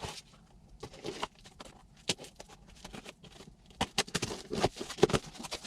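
Cardboard box being opened and packaging handled: irregular scrapes, taps and rustles, busier near the end.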